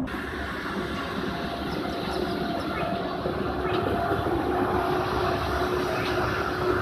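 A train at a railway station platform: steady running noise with a faint steady hum.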